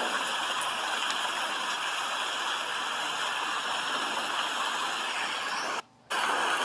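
Steady rain, a continuous even hiss of falling water. It cuts out suddenly for about a third of a second near the end, then resumes.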